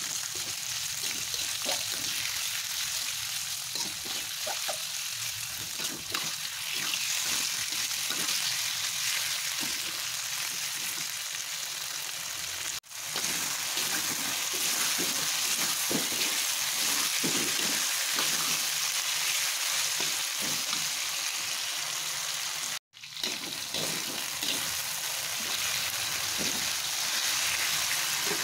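Beef pieces sizzling in hot oil in a wok while a spatula stirs and scrapes them: the raw meat being seared until it changes colour. The sizzle cuts out for an instant twice, a little before halfway and about three quarters of the way through.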